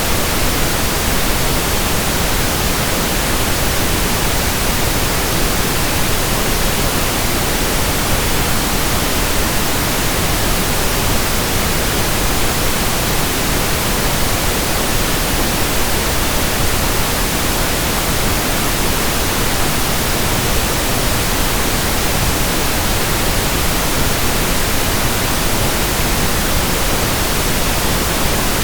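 Steady pink noise: an even, unchanging hiss across the whole range, with no rhythm or events.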